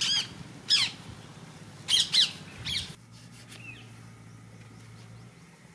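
Birds calling: about five short calls, each falling in pitch, in the first three seconds, then only faint background.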